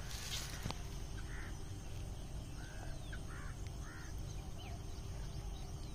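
Several short bird calls over a low steady background rumble, with a brief rustle at the start.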